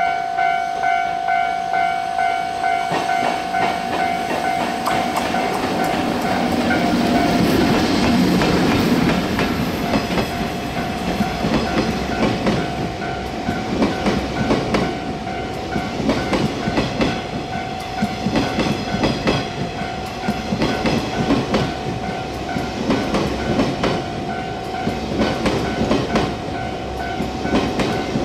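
EF64 electric locomotive hauling a ten-car 185-series train past close by, loudest as the locomotive goes by about seven seconds in, then the cars' wheels clacking over the rail joints. A repeating electronic warning tone rings throughout.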